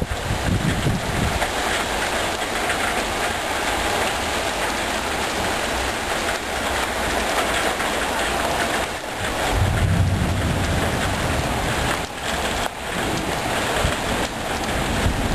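Heavy thunderstorm rain falling steadily, with a low rumble swelling up about ten seconds in.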